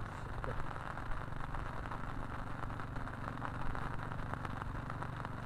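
Steady rain falling, with many small drops ticking close to the microphone over a low steady rumble.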